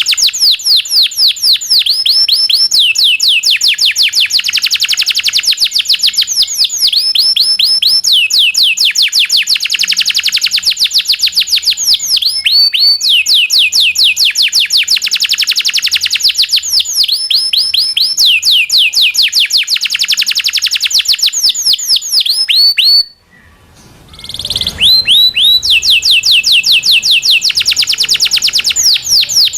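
Domestic canary singing long rolling trills: rapid runs of quick falling chirps, one phrase after another, with a brief break about three-quarters of the way through.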